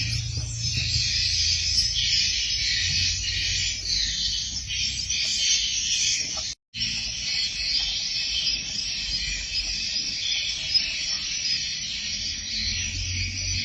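Dense, continuous twittering of many swiftlets over a low hum. The sound cuts out completely for a split second about halfway through.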